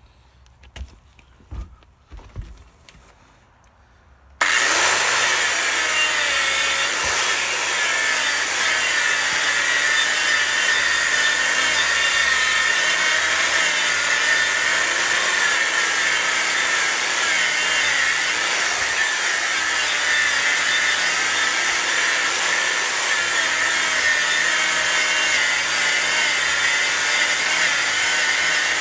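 Harbor Freight 11-amp angle grinder fitted with a bristle brush attachment. It switches on abruptly about four seconds in and runs steadily, its pitch wavering as the spinning brush is worked over wooden deck boards to strip the Rust-Oleum Deck Restore coating. A few light knocks come before it starts.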